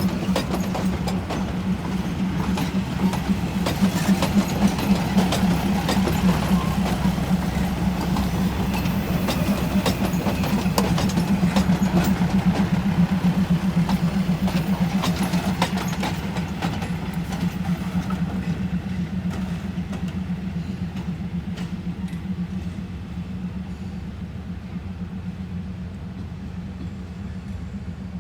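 Diesel train engine running with a steady low drone and many sharp clicks and knocks over it, slowly fading over the second half.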